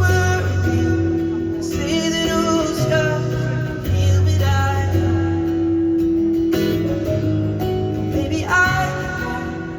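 Live acoustic pop song: a male singer holding long, wavering notes over acoustic guitar.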